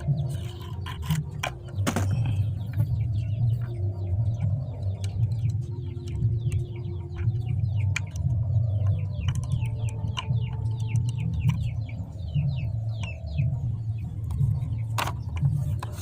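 Birds calling: a long run of quick, short, falling chirps from a small bird through the middle, over clucking like a hen's.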